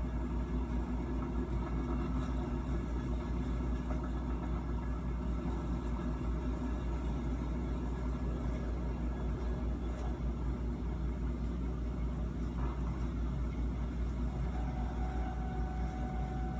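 A train running along the track, heard as a steady low rumble from a cab-view broadcast playing through a TV's speakers. A steady tone joins near the end.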